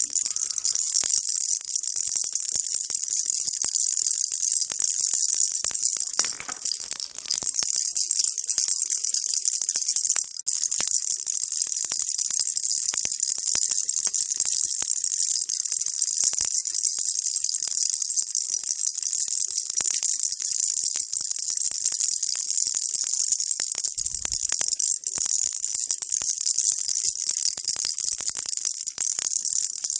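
A baby's rattle shaken without pause, giving a steady, dense stream of fine, high-pitched rattling clicks.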